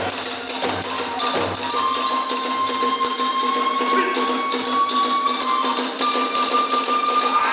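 Kagura hayashi ensemble playing: a bamboo flute holds one long note, rising slightly in pitch, over fast clashing hand cymbals, with drum beats in the first couple of seconds.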